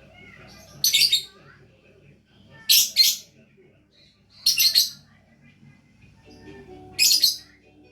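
Lovebird giving loud, shrill calls: four harsh bursts, each under half a second, about two seconds apart, some broken into two quick notes.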